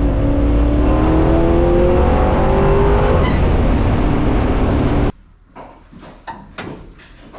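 Small-block Chevy V8 in a 1964 Buick Special accelerating hard, heard from inside the car, its pitch rising for about three seconds and then holding. The engine sound cuts off suddenly about five seconds in, leaving a few quieter knocks.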